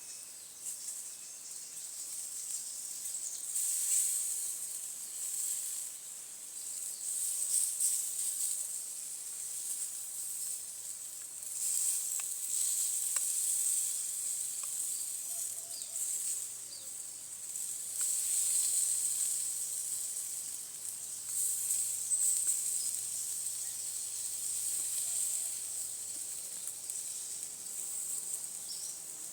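Insect chorus: a continuous high buzzing that swells and fades every few seconds.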